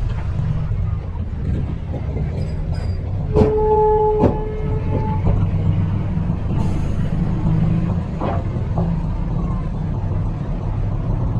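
Heavy construction machine's diesel engine running with a steady low rumble, with a few sharp metal clanks and a brief steady squeal lasting about two seconds, starting about three seconds in.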